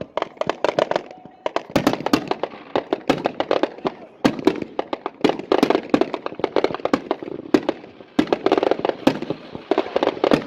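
Consumer fireworks going off in a finale: rapid, overlapping bangs and crackling reports, several a second.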